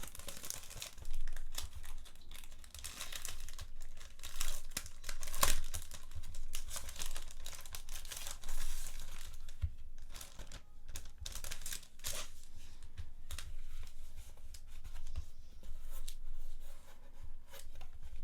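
Packaging being torn open and crinkled by hand in irregular rustling bursts, busiest in the first half and thinning out later.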